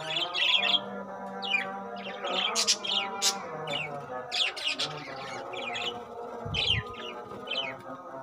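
A flock of budgerigars chirping: many short, sharp, falling chirps, one after another, close together.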